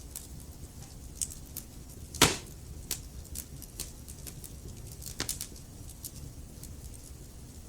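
Wood fire burning in a fireplace: irregular sharp crackles and snaps over a low steady rumble of the flames, with one loud pop a little after two seconds and a small cluster of snaps around five seconds in.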